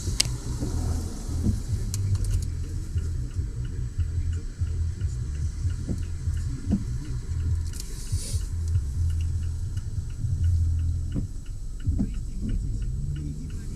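Steady low rumble of a vehicle on the move, heard from inside the cab, with a sharp click right at the start and faint light ticking through the second half.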